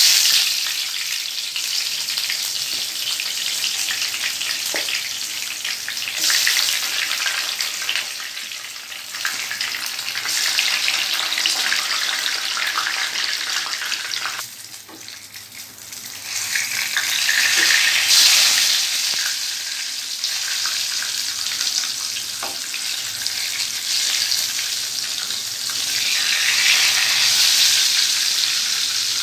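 Thick eggplant slices shallow-frying in hot mustard oil, a loud steady sizzle that starts suddenly as the first slice goes into the oil. The sizzle dips briefly about halfway through, then comes back.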